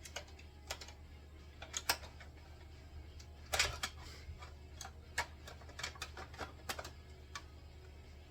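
Irregular light clicks and knocks of metal seat parts being handled and fitted, with a few louder knocks, over a low steady hum.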